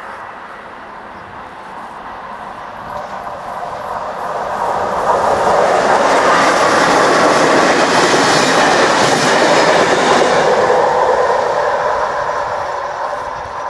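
Passenger train passing over a level crossing: it builds over a few seconds, is loudest through the middle and fades near the end. The crossing's AŽD 71 warning bell rings with it.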